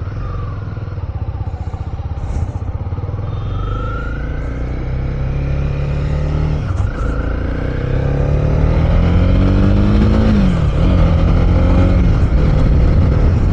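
Honda CB300R's single-cylinder engine accelerating under way: its pitch climbs, drops sharply twice at upshifts (about six and a half and ten and a half seconds in), and climbs again, getting louder as it goes.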